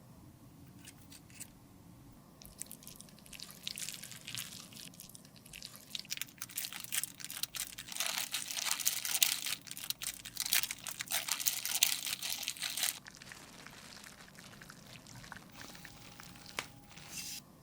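Close-miked crunching and scraping from hands-on makeup repair work: a dense crackle that builds from about three seconds in, is loudest from about eight to thirteen seconds, then drops to faint scattered scratches.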